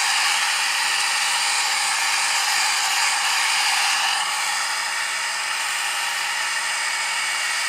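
Nova foldable hair dryer running steadily, blowing a constant hiss of hot air, a little quieter from about four seconds in.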